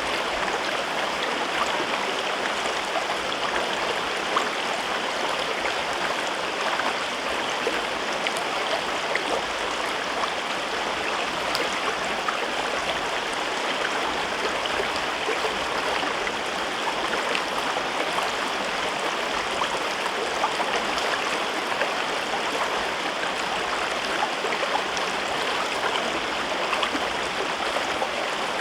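A river running through a rocky gorge, a steady rush of flowing water with fine splashing and burbling.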